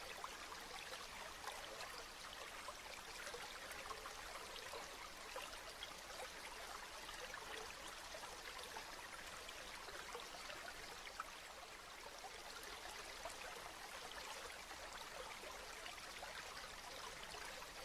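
Steady rain falling: an even, soft hiss dotted with the ticks of many individual drops.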